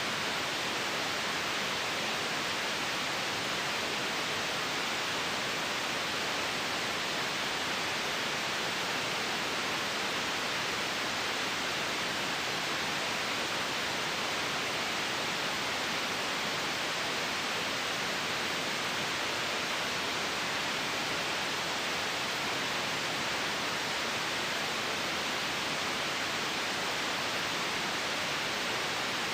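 Steady white noise: an even, unchanging hiss, bright in the treble and thin in the bass.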